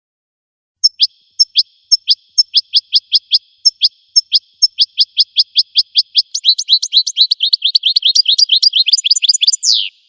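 Goldfinch song: a long run of sharp, quickly falling notes, each starting with a click, at first about three a second, then faster and overlapping from about six seconds in, ending in one longer falling note.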